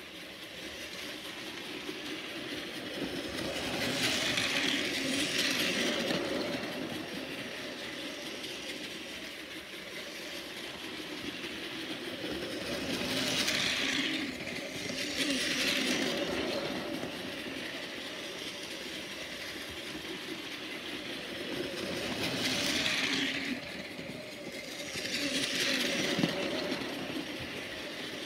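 Train running noise: a steady rumble with swells of hiss that come in pairs, repeating about every nine seconds.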